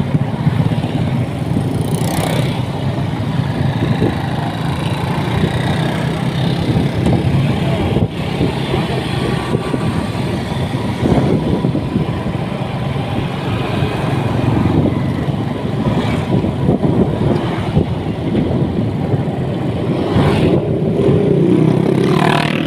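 Motorcycle being ridden on the road: steady loud engine and road noise, with other traffic passing.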